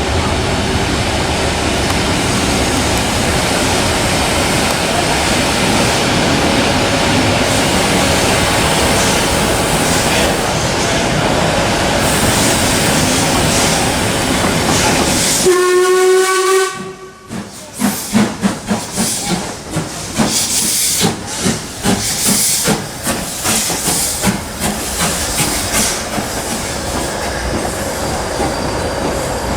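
Steam locomotive hissing steadily, then sounding its whistle once, a short pitched blast, about halfway through. A run of rhythmic beats follows.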